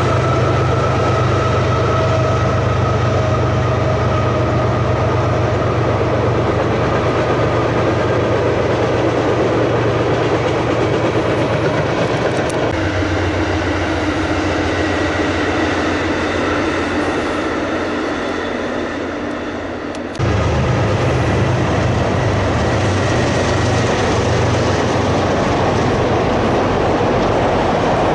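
Freight train cars rolling past on the rails, a steady rumble with wheel clatter. About 13 seconds in, the sound switches abruptly to an Amtrak passenger train going by, which fades away. About 20 seconds in it jumps back suddenly to rolling freight cars.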